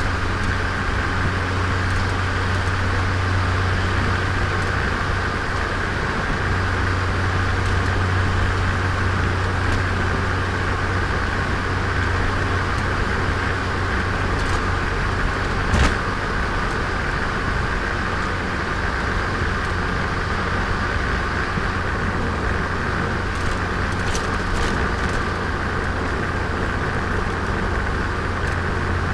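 Turbocharged Nissan Micra engine and road noise heard from on board while driving at a fairly steady pace, with a single sharp knock about 16 seconds in.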